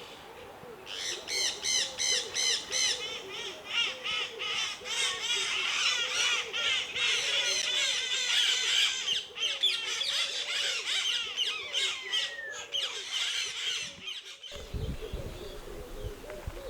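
Many aviary birds calling at once: a dense run of rapid, repeated chirps and squawks. Near the end it cuts off sharply to a quieter low rumble.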